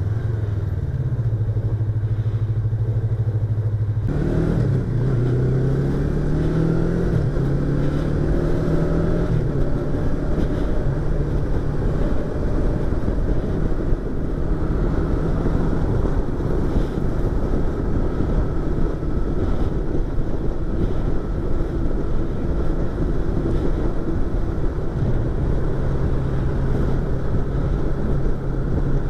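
Yamaha YZF-R25's 250 cc parallel-twin engine and exhaust, heard from inside the rider's helmet over wind rush. It holds a steady note for about four seconds, then accelerates through the gears, the pitch climbing and dropping back at each shift, before settling to a steadier cruise.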